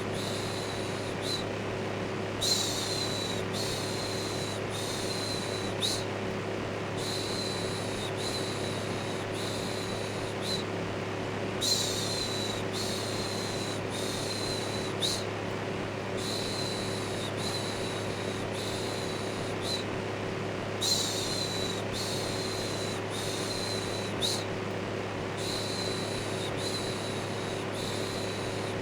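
Electric fan running with a steady low hum, overlaid with a rhythmic shushing 'shhh' sound repeated about once a second, in runs broken by brief pauses: continuous white noise meant to soothe a baby to sleep.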